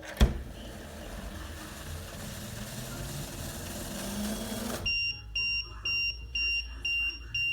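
Tomoloo Q2 hoverboard malfunctioning on start-up: a sharp knock, then a steady hiss for about four and a half seconds that cuts off suddenly, followed by the board's high-pitched warning beeps, about two a second.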